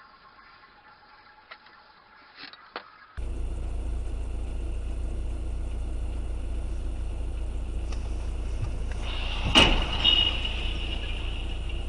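A vehicle's steady low driving rumble starts abruptly about three seconds in. Near the end come a sharp bang, a second smaller one and a brief high ringing, typical of a vehicle collision.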